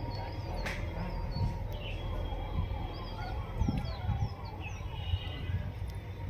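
Small birds chirping and calling repeatedly, short quick pitch glides, over a steady low rumble, with one sharp click about two-thirds of a second in.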